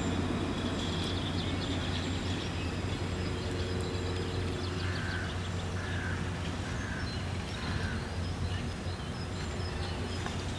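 Outdoor background with a steady low hum, over which a bird calls four times in an even series about halfway through, with faint small-bird chirps around it.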